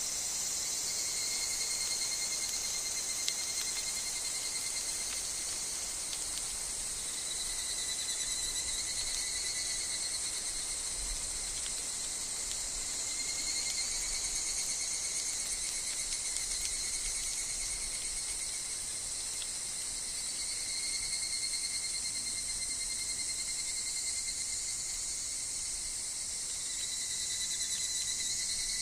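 Higurashi (evening cicadas) calling in a steady chorus, with thin high tones that swell and fade in long waves.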